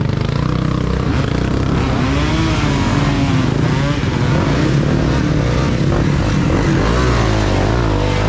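Several dirt bike engines revving, overlapping, their pitch repeatedly rising and falling as the riders work the throttle and shift.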